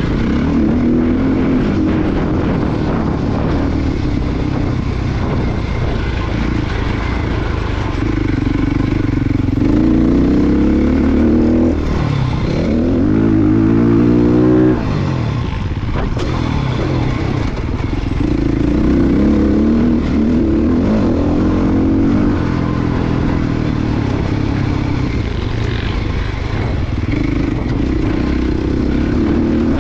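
Dirt bike engine running hard around a motocross track, its pitch rising and falling as the throttle is worked and the gears are shifted. The longest climb ends in a sharp drop about fifteen seconds in.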